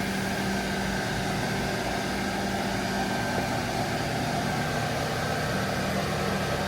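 Heavy diesel engine of a working crane running steadily at constant speed, a low even drone with a faint high whine above it.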